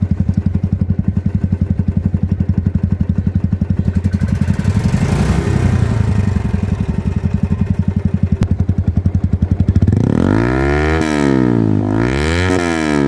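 Royal Enfield Bullet 350 single-cylinder engine idling with an even, rapid thump. About ten seconds in, a motorcycle engine is revved twice, the pitch rising and falling each time.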